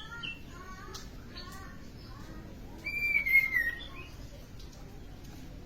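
A sunbird of the kind Indonesian bird keepers call kolibri ninja, singing in full song: quick high chirps, then about three seconds in a loud whistled note that slides slightly down, lasting under a second.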